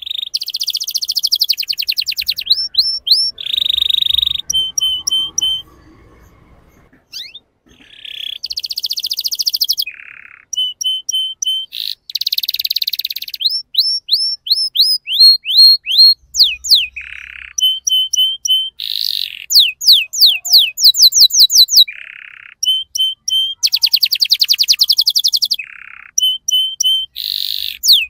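Young male canary singing in phrases of rapid trills, quick repeated chirps and fast sweeping notes, with a short pause about six seconds in.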